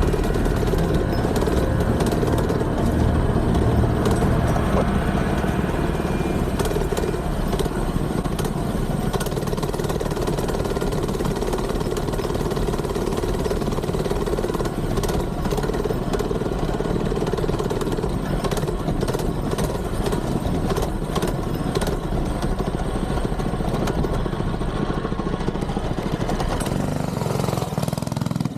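Mini bike engine running steadily for a long stretch, its sound dropping away at the very end.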